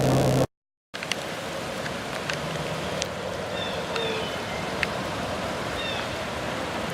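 A vehicle engine idling, cut off abruptly about half a second in; then steady rain falling, with scattered drips ticking on surfaces.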